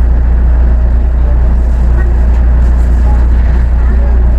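Osaka Monorail train running between stations, heard from inside the car: a loud, steady low rumble of the rubber-tyred train on its track beam.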